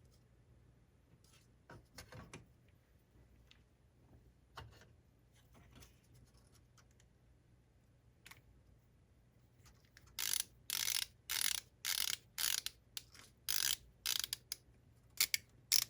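A few faint small clicks of handling, then from about ten seconds in a ratcheting screwdriver driving small screws: short bursts of ratchet clicking, about two a second, one for each back-swing of the handle.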